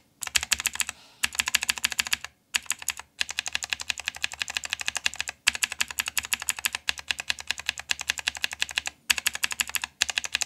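Blue clicky switches on a mechanical keyboard, lubed with hand cream, pressed rapidly over and over: fast runs of clicks broken by a few short pauses.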